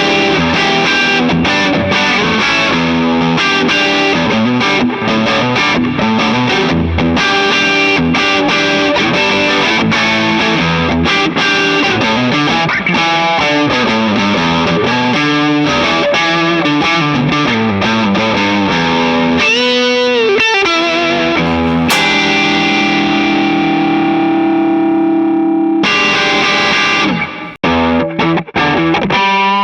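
Gibson ES-335 semi-hollow electric guitar played with distortion: hard rock and roll riffs in E minor. About twenty seconds in, a note wavers with vibrato, and then a chord is held ringing for a few seconds.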